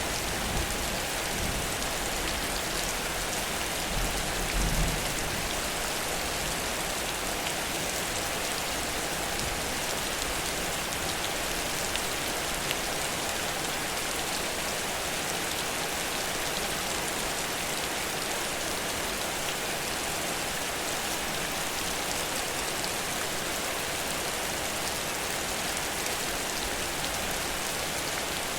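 Heavy rain falling steadily in a downpour: a dense, even hiss of rain on surfaces, with a brief low rumble about four seconds in.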